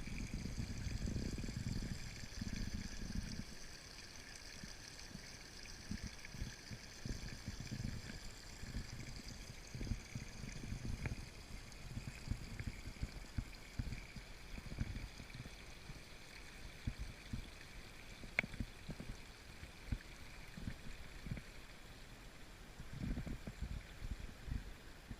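Water flowing, as in a stream, with an uneven low rumble and a single sharp click about eighteen seconds in.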